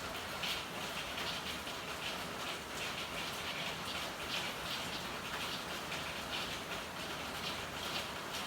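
Steady rain falling, with irregular louder spatters of drips and splashes.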